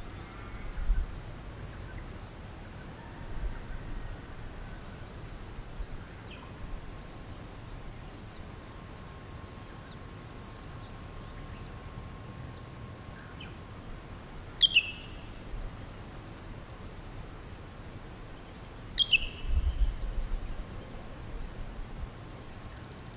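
Wild bush birds calling: three sharp, high, down-slurred calls, the first about two-thirds of the way in, the next some four seconds later and the last at the very end, the first running on into a rapid series of dry ticks for about three seconds. A low wind rumble lies underneath, swelling briefly after the second call.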